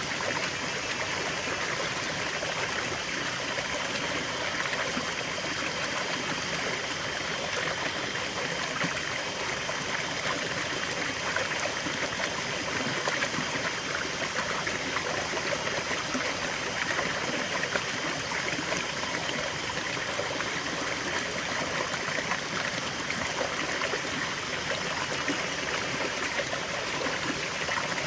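Small stream of water flowing and trickling steadily over stones, a continuous babbling rush.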